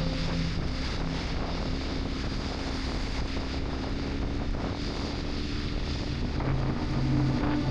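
Kawasaki Z900 inline-four engine under way, with wind rushing over the microphone. The engine note drops to a low, quieter run, then picks up again near the end.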